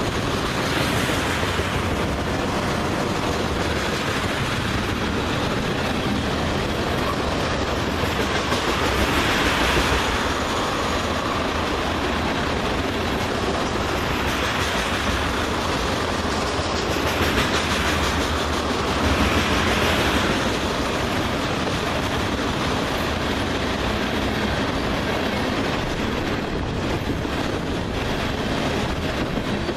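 Freight train of crude oil tank cars rolling past steadily, wheels clacking over the rail joints. Several stretches of louder, hissing wheel noise come and go in the middle.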